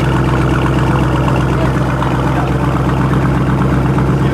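A car engine idling steadily close by, with an even low drone that does not rev.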